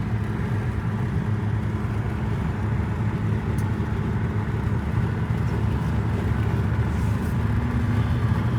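Steady engine and tyre noise of a vehicle driving along at a constant speed, heard from inside the cabin as a low, even drone.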